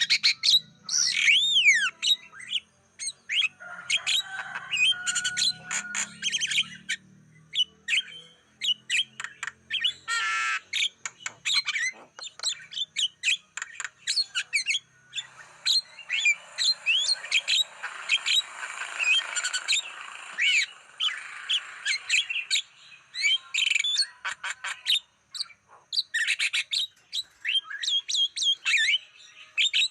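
Javan myna (jalak kebo) singing a long, varied song of rapid chirps, rising and falling whistles and stretches of harsh, scratchy chatter.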